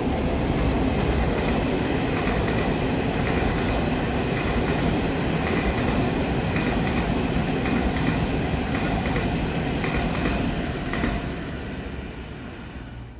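Passenger train passing close by on the main line, wheels running over the rails in a steady loud rush, which begins to fade about eleven seconds in.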